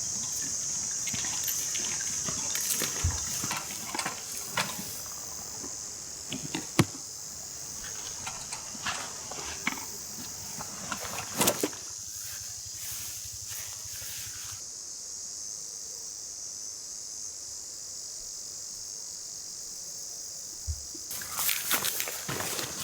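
Steady high-pitched chirring of insects in the background, with scattered clicks and knocks from camp gear being handled and a cluster of louder knocks and rustles near the end.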